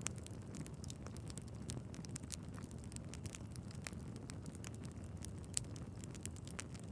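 Wood fire crackling in a fireplace: many small sharp pops over a low steady rumble of the flames, with one louder pop about five and a half seconds in.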